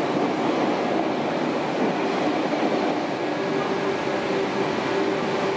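Running noise heard inside the passenger car of a 413/455 series electric train: a steady rumble of wheels on rail. A faint steady hum comes up about halfway through.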